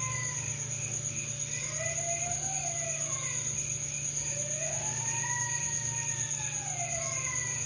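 High, wavering wailing cries that slowly rise and fall in pitch, a few of them, the longest about halfway through, heard over steady cricket chirring and a low hum. The uploader presents the wails as a woman crying at midnight.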